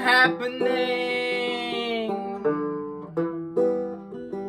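A voice sings a long held note on the word "happening" over steady banjo picking; the voice stops about halfway through and the banjo plays on alone.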